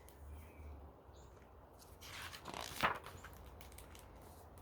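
A picture-book page being turned: a short paper swish about two seconds in, ending in a sharp flick, over a faint steady low hum.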